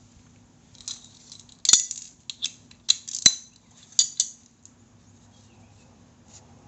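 Metal tools and brake parts clinking and tapping against each other as they are handled: a quick series of about eight sharp clinks in the first two-thirds, then only a faint low hum.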